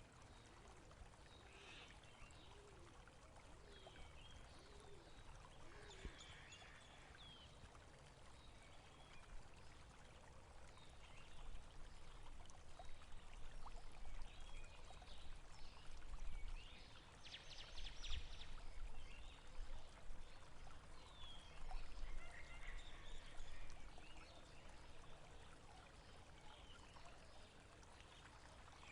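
Faint moving water with scattered short bird chirps over it, a little louder through the middle.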